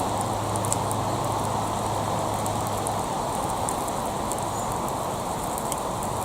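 Gas torch flame blowing steadily, with scattered small crackles throughout.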